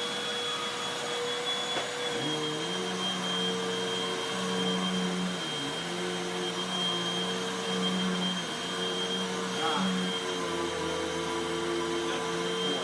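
Hoover WindTunnel High Performance upright vacuum cleaner running at full speed with a steady high whine. From about two seconds in, its pitch settles slightly lower and a lower hum comes and goes.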